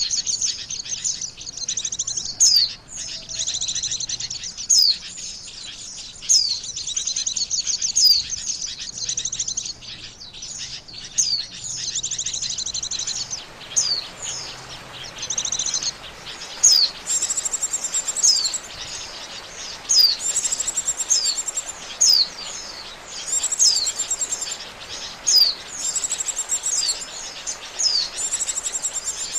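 White-eye (pleci) song used as a lure call: rapid high chirping warbles broken by sharp, quickly falling whistled notes. From about halfway the phrases repeat every couple of seconds with a very high buzzy trill, over a steady hiss.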